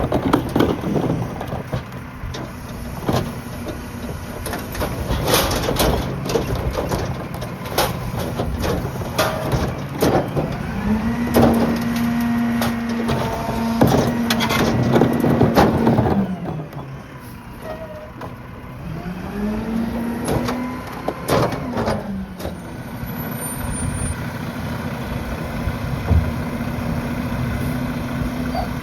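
Mack garbage truck's diesel engine idling, then revving up and holding twice as the Heil PowerTrak rear loader's hydraulic packer cycles, before settling back to idle. Repeated metallic clanks and bangs from the hopper and loaded trash run throughout.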